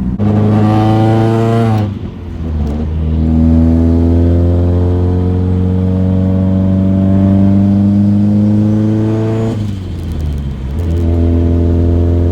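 Nissan 240SX engine and exhaust on a test drive, pulling through the gears. The pitch climbs slowly with load, falls twice where gears are shifted, and then holds steady near the end.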